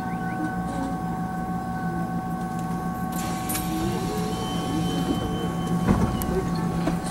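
Taiwan Railways EMU700 commuter train standing at a platform, heard from inside the car: its onboard equipment hums with several steady tones. A high steady beep starts about four seconds in and lasts about two seconds, and a single thump comes about six seconds in.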